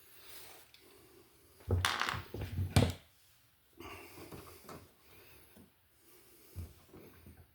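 Handling noise from hands working wires and an outlet box: a burst of loud clicks and rubbing about two seconds in, then quieter scrapes and taps.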